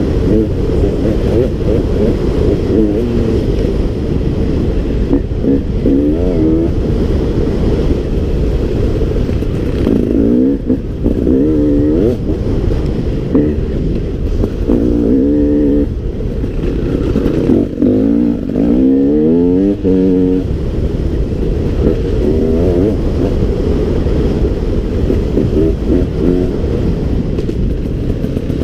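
KTM 300 EXC two-stroke enduro motorcycle engine heard from the rider's helmet, running hard and repeatedly rising and falling in pitch as the throttle is opened and closed, with several quick rev sweeps in the middle.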